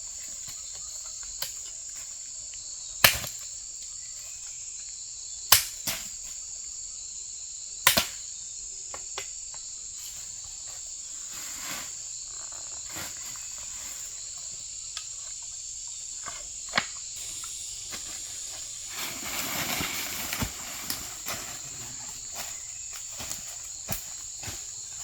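Steady high-pitched insect chorus, with a few sharp knocks standing out above it. The loudest knocks come about three, five and a half and eight seconds in, and there is a short rustling scrape about nineteen seconds in.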